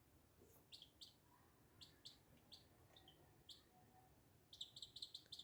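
Faint chirping of a small bird: short single chirps about a second apart, then a quicker run of chirps near the end.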